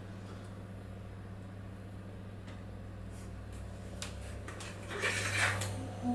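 Steady low hum with a few faint taps, then about five seconds in a short scrape of a spoon against a mixing bowl as cheesecake mixture is poured out.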